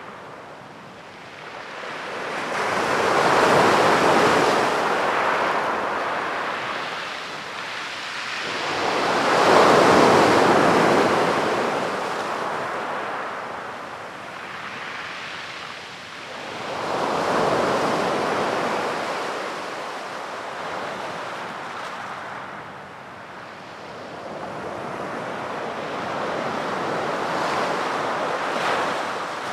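Sea waves breaking and washing up a beach, in slow swells about every six or seven seconds: four surges, the second the loudest.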